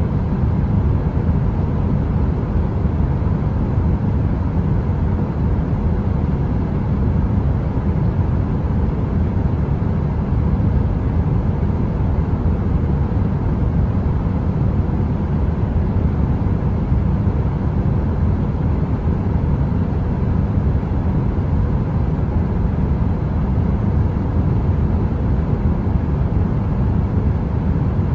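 Electric heater running: a steady, deep rushing noise with a faint even hum.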